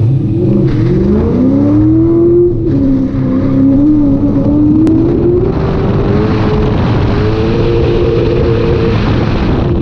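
Ford Mustang autocross car's engine heard from inside the cabin, revving up hard for the first couple of seconds, dipping briefly, then pulling and rising again under load.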